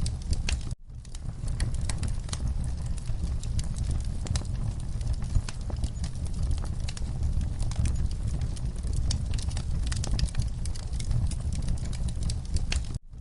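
Wood fire burning in a fireplace: a steady low rumble of flames with frequent sharp crackles and pops. The sound cuts out for a split second about a second in and again just before the end.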